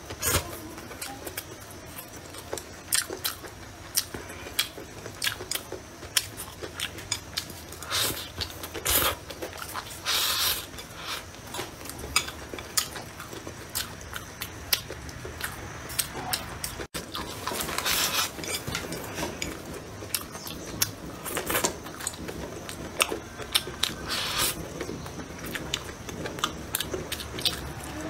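Close-miked eating sounds: a man chewing mouthfuls of rice, stir-fried green peppers and bamboo shoots, with many small wet mouth clicks and a few longer, louder mouth noises.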